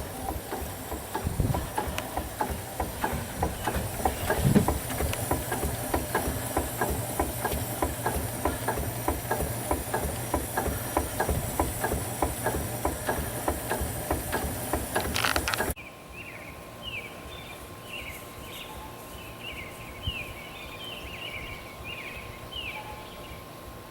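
A 5/8-scale Wood Brothers steam traction engine running, its steam engine beating in a quick, even rhythm with a hiss over it. This cuts off suddenly about two-thirds of the way through, leaving a quieter background with a string of high chirps and a steady tone.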